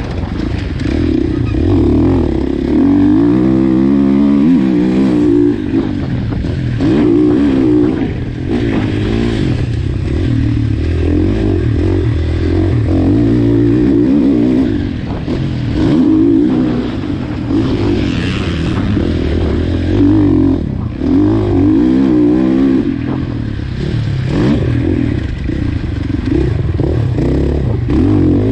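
2019 KTM 450 SX-F's single-cylinder four-stroke engine being ridden hard on a motocross track, revving up and dropping back over and over, its pitch rising and falling every second or two.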